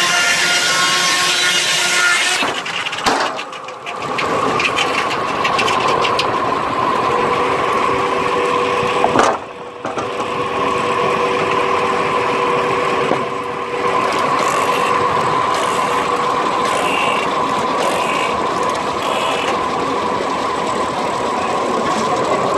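Sawmill blade driven by a 1926 Keck-Gonnerman steam traction engine running, with a steady high whine. The sound drops out briefly twice, about three seconds and nine seconds in.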